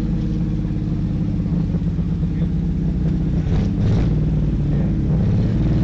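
Vintage race cars' engines running together as a loud, steady drone that swells a little about four seconds in.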